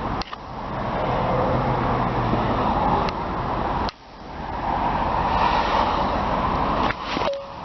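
A 2002 Nissan Pathfinder's 3.5-liter V6 idling steadily, heard from outside the vehicle. The sound drops out abruptly twice.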